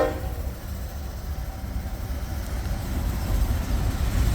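Steady low rumble of a train, heard just as a horn blast cuts off, then growing slightly louder toward the end.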